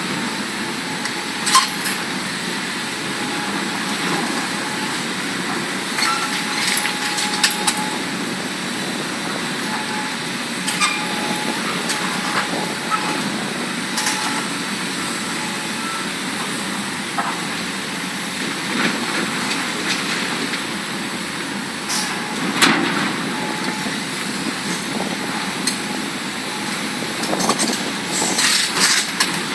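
Large Hitachi Zaxis hydraulic excavators' diesel engines running steadily, with scattered sharp knocks and clanks. A cluster of knocks comes near the end.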